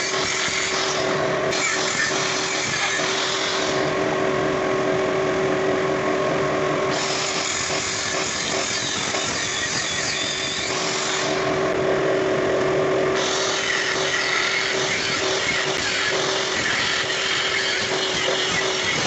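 Power tool running steadily with a constant whine. The high hiss drops away twice for a few seconds while the whine carries on.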